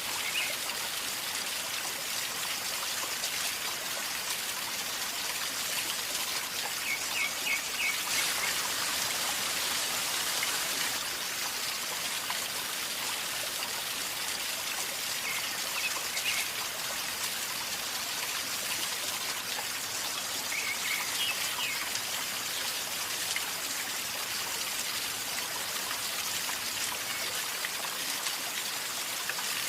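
River water flowing and gurgling in a steady, even rush, with a few brief clusters of short, high chirps.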